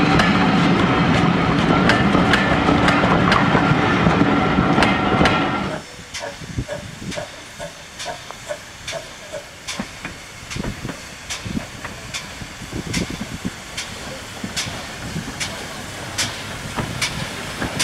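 Railway coaches rumbling and clattering past at close range. About six seconds in this gives way to a GWR 57xx pannier tank locomotive moving slowly, quieter, with steam hiss and sharp beats about once a second.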